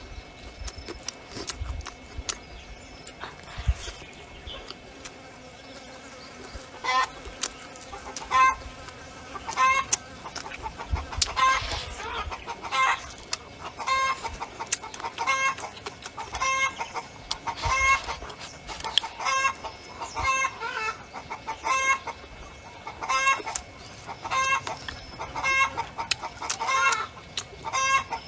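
Chickens clucking in a steady run of short calls, about one a second, starting about a quarter of the way in; light scattered clicks before that.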